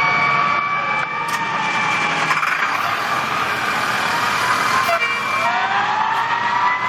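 Fire truck siren wailing, its pitch sliding down and then climbing again about five seconds in.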